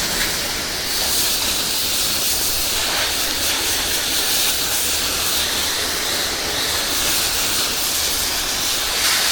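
Pressure washer spraying a steady high-pressure water jet onto a dirty house surface: a constant hiss.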